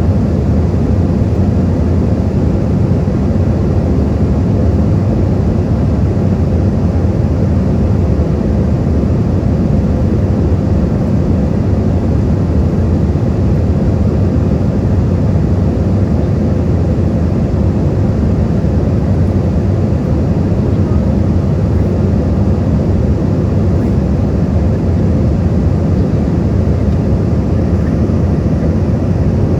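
Steady low rumble of jet airliner cabin noise on approach, engines and rushing airflow with a faint steady hum above it.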